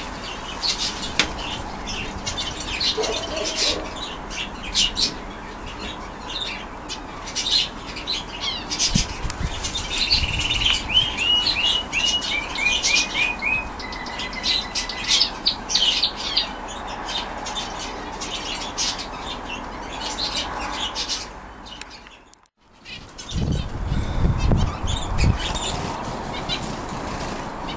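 Domestic canaries singing and chirping, with a run of quick repeated falling notes about ten seconds in. A brief break about two-thirds of the way through, then a low rumble under the birdsong for a few seconds.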